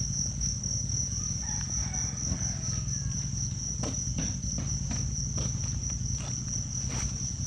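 Crickets chirping in one steady high-pitched trill over a low steady rumble, with a few faint clicks.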